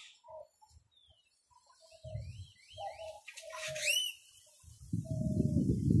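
Birds calling close by: low repeated calls, a few quick high chirps about two and a half seconds in, and one sharp rising whistle around four seconds. A louder low rumble comes in near the end.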